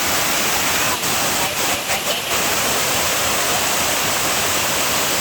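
Waterfall rushing loudly and steadily, a dense hiss of falling water, broken only by a few very brief dips about one and two seconds in.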